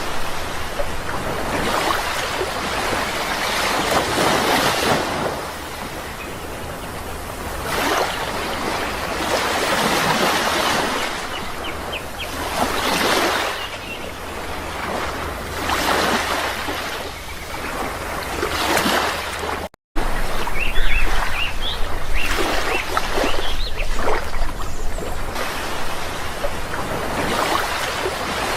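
Sea waves breaking and washing in, swelling and easing every few seconds. About twenty seconds in, the sound cuts out for an instant and comes straight back.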